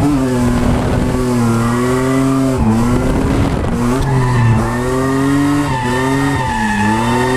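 Drift car's engine held at high revs, its pitch dipping briefly and climbing back several times as the throttle is worked, with tyres squealing and skidding under it.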